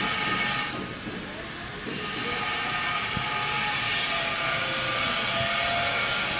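A steady hiss, with faint steady tones in it; the high part drops away briefly about a second in, then returns.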